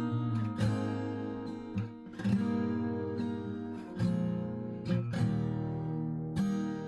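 Background music: acoustic guitar strumming chords, with a strum every second or so.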